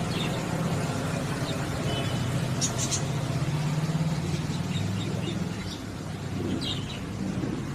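A steady low motor hum, with a few short high budgie chirps about three seconds in and again near the end.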